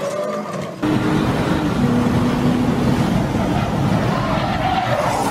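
A car running: steady engine and road noise that cuts in abruptly about a second in, after a quieter stretch.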